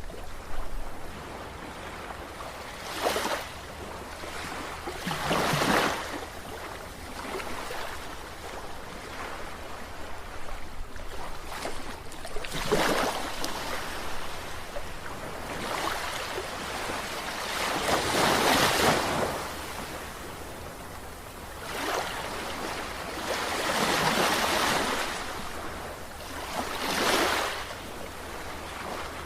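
Sea waves breaking, with surges of surf that swell and fade every two to five seconds. The loudest surge comes about two-thirds of the way through.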